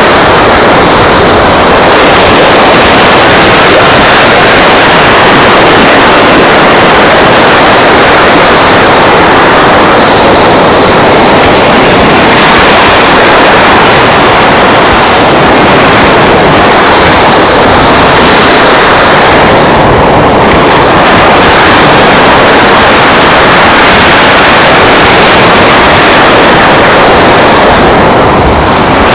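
Loud, steady rushing noise of wind and surf at the shore, with slow swells every few seconds.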